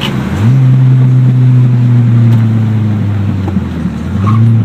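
1994 Ford Ranger's 2.3-litre four-cylinder engine running with no muffler. It is revved up about half a second in and held at a steady higher speed for about three seconds, drops back toward idle, then revs up again near the end.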